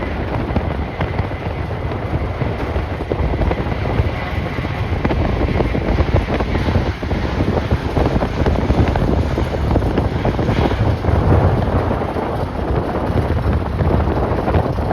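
Strong gusting wind buffeting the microphone: a continuous rushing noise, heaviest low down, swelling and easing with the gusts.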